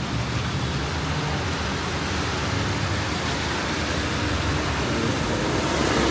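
Steady wet-street ambience on a flooded city street: an even hiss with a low traffic rumble beneath it, and a low engine hum building near the end.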